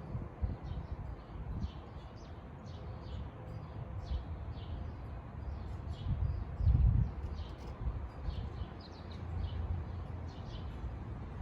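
Small birds chirping: short high calls repeat every second or so, over an uneven low rumble, with a louder low bump about seven seconds in.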